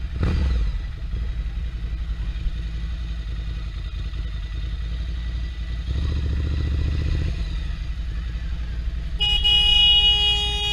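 Motorcycle engine running in traffic with a steady low rumble. About nine seconds in, a vehicle horn sounds one steady blast of about two seconds, the loudest sound here.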